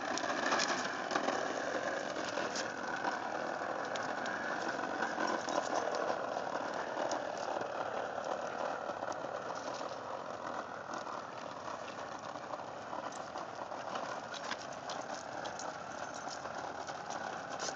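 Push lawn mower rolling along a concrete sidewalk: a steady rattling with many small clicks from its wheels and mechanism.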